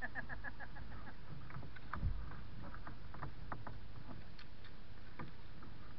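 Kayak paddling on a river: steady water noise with small drips and splashes from paddle strokes, and a dull knock about two seconds in.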